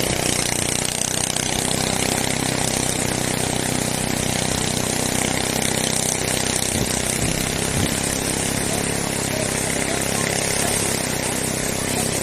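A small engine running steadily at an even speed: a constant hum with a noisy rattle over it.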